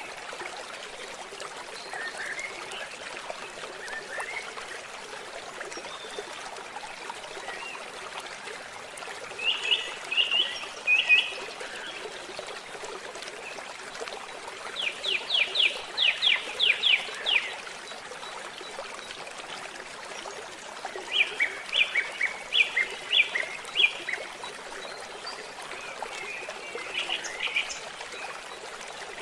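Small stream trickling and babbling steadily, with birds calling in short bursts of quick repeated notes. The longest burst is a rapid series of about ten strokes in the middle.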